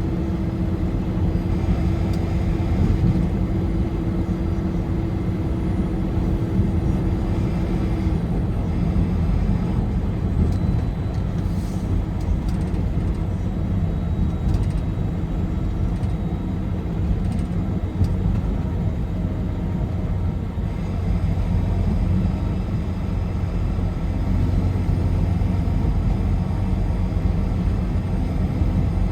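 Car driving at highway speed: a steady low rumble of engine and tyre-on-road noise, with a faint steady hum that stops about eight seconds in.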